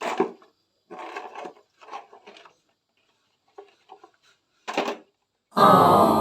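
A sponge scrubbing a plastic toy car, giving a series of short squeaky rubbing bursts, the longest and loudest near the end.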